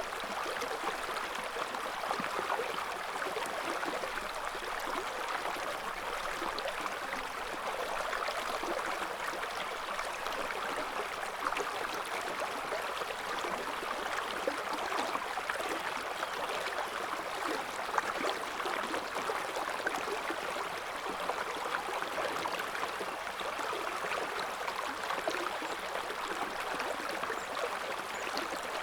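River water flowing steadily over stones, a constant rushing babble with small splashes and gurgles.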